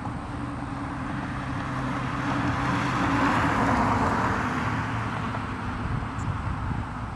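Jet airliner passing, its engine rush swelling to its loudest about three to four seconds in and then fading, over a steady low hum.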